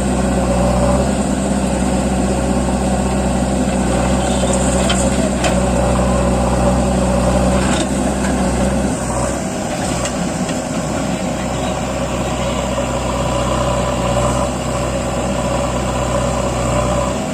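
Diesel tractor engine running steadily under load, its low note shifting about halfway through.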